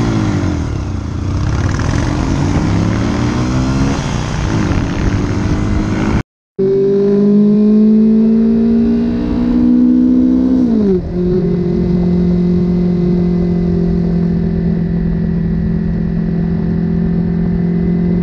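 Motorcycle engine heard from the riding bike, with heavy road and wind noise and gliding engine pitch in the first part. After a brief cut, the engine rises steadily in pitch under acceleration, drops sharply at an upshift about 11 seconds in, then holds a steady cruising note.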